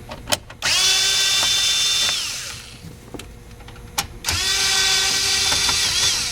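Cordless drill/driver with a 7mm socket backing out two dashboard trim screws: two runs of about a second and a half each, the motor spinning up to a steady whine and winding down, with small clicks of handling between them.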